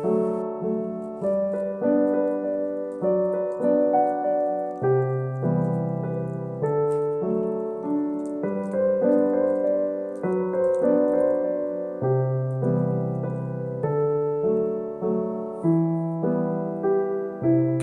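Background piano music: a gentle, steady melody of repeated chords.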